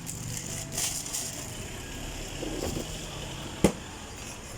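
Steady background noise of a passing vehicle, with a single sharp knock about three and a half seconds in.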